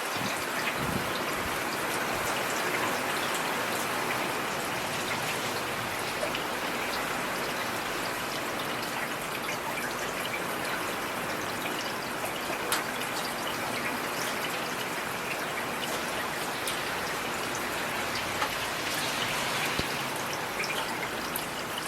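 Heavy rain falling steadily: a dense, even hiss of rain, dotted with the sharp ticks of single drops striking.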